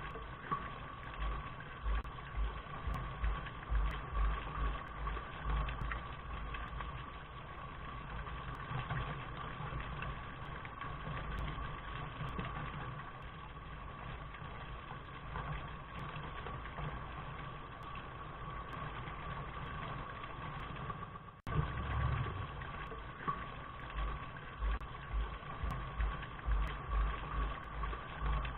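Steady rain noise with an uneven low rumble underneath. It cuts off for an instant about 21 seconds in and starts again the same way: the recording is looped.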